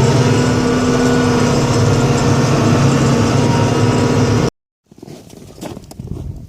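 A plow vehicle's engine running steadily, with a faint rising whine near the start. About four and a half seconds in, it cuts off abruptly. After a moment of silence there are quieter, irregular knocks and rustling.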